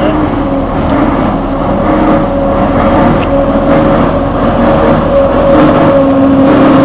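Shunting locomotive running on the track, its engine giving a steady drone with a held tone over the rumble, getting louder as it draws nearer.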